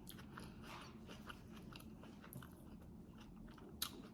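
Close-up chewing and biting sounds of a person eating a birria taco: faint wet, crunchy clicks, with one sharper click near the end.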